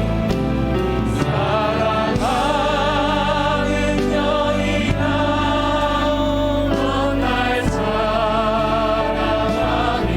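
Live worship band music with keyboards, bass and drums. About two seconds in, a melody line slides up and then holds with vibrato over sustained chords.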